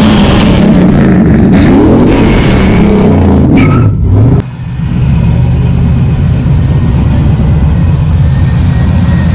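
Vehicle engine revving, its pitch climbing and falling several times, then a sudden break about four and a half seconds in, after which a loud engine runs on steadily.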